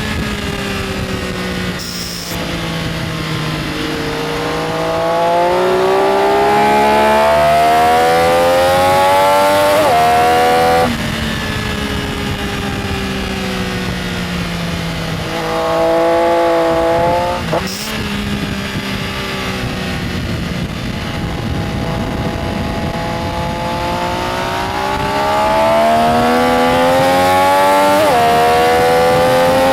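Benelli Tornado Tre 900's inline three-cylinder engine being ridden hard. The revs climb in long rising sweeps, with sharp drops at gear changes about ten seconds in and again near the end, and falling revs in between as the bike slows for corners.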